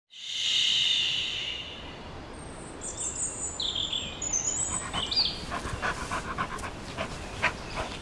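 Woodland ambience with birds chirping in short high notes, followed by a run of quick ticking sounds near the end.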